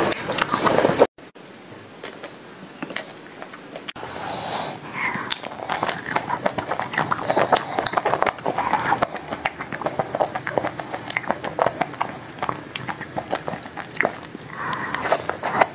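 Close-miked eating of ice cream bars: biting and chewing with many short crackly clicks and wet mouth sounds. The sound drops to a low hush about a second in, and the dense chewing clicks return about four seconds in as a chocolate-coated bar with crunchy nut topping is eaten.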